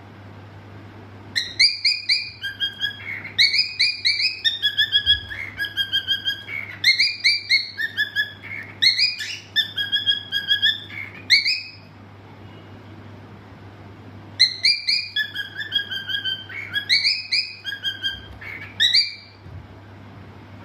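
Cockatiel whistling its song: a run of clear whistled notes and short rising chirps for about ten seconds, a pause of a few seconds, then a second, shorter phrase.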